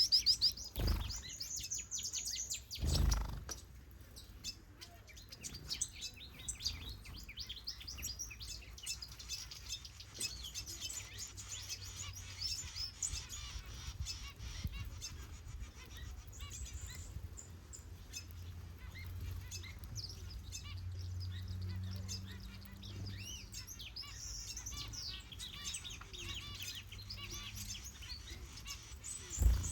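A mixed flock of small aviary finches and softbills chirping and twittering continuously, many short high calls overlapping. Two low thumps sound in the first few seconds, with a faint low hum underneath.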